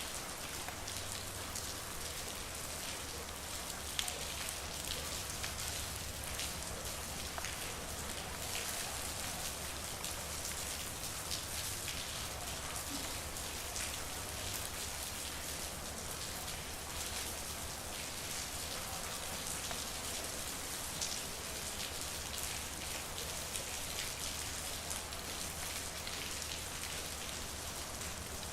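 Steady rain falling, with many separate drops ticking through it, over a low steady hum.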